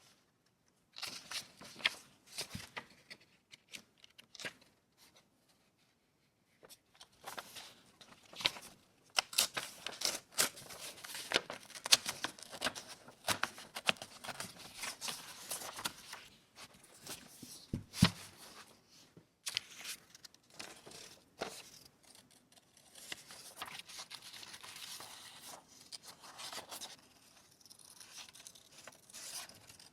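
Paper being torn and handled: a dense run of sharp rips, rustles and crinkles, broken by a short silence about five seconds in.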